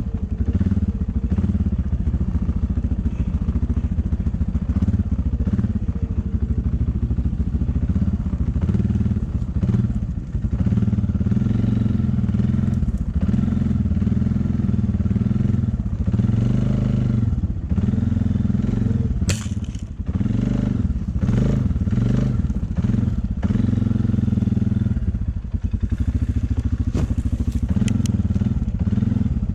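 A vehicle engine running steadily at a low pitch, with brief dips in loudness now and then and a sharp click about twenty seconds in.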